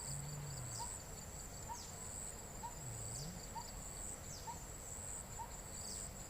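Outdoor night ambience of insects: a steady high trill with high falling chirps repeating, and a short call repeating about once a second.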